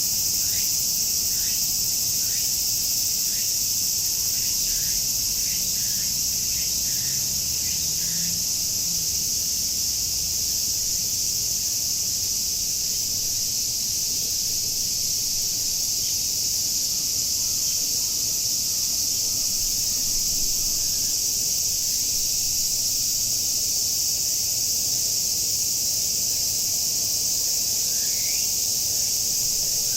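A chorus of cicadas buzzing steadily, a dense, high, unbroken hiss. Over it a bird calls in short rising notes, repeated over and over for the first several seconds and again near the end.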